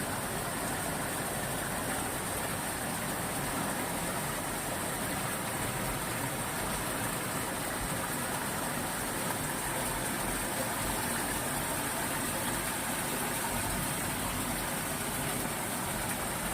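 Rushing water: a steady, unbroken hiss and rumble of flowing water.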